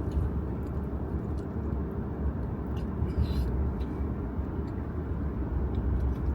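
Steady low rumble of a semi-truck's engine and road noise inside the cab while driving, with a brief scratchy sound about three seconds in.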